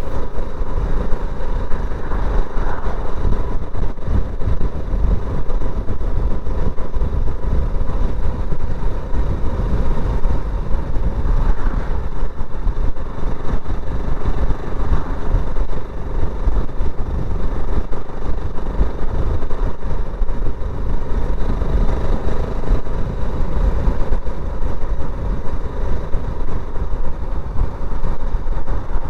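BSA Gold Star 650 motorcycle's single-cylinder engine running steadily as the bike rides along the road, with a heavy low rumble of wind on the microphone.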